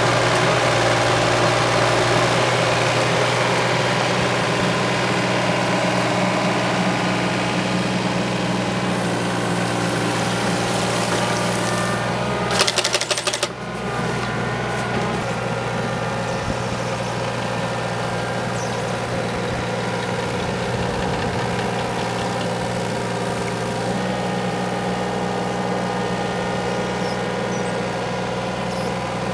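Excavator engine running steadily under load while the hydraulic Eterra 5-foot sickle bar mower's reciprocating knives chatter. About halfway through there is a short burst of rapid clacks.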